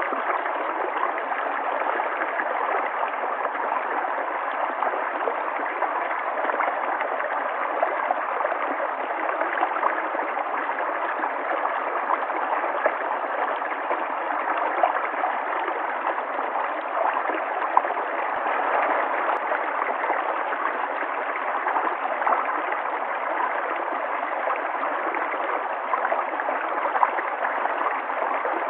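River water flowing and gurgling in a steady rush, with small splashes flickering through it.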